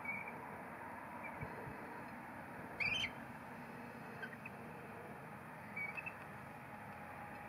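A few short, high bird chirps over a steady outdoor hiss, the loudest one about three seconds in.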